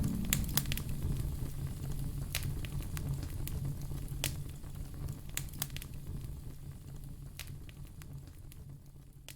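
Wood fire in a fireplace crackling, with scattered sharp pops over a steady low sound, fading out gradually.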